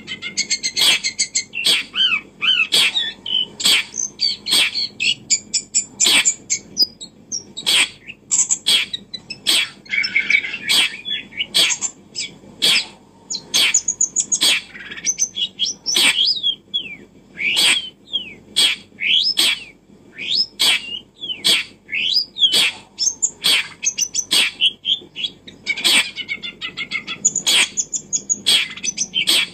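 Bird chirping and calling in short rising and falling notes, over a run of sharp clicks that come about every half second to second.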